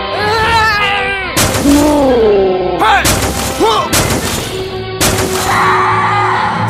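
Loud action-scene soundtrack: music with gliding, wordless vocal sounds, cut by three sharp booming impacts about a second and a half apart.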